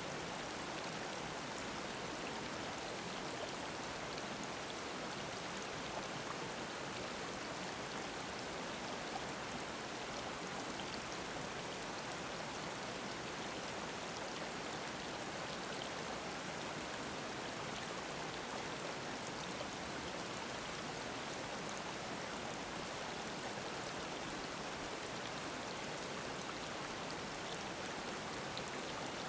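Mountain stream flowing over rocks, a steady, even babbling rush of water.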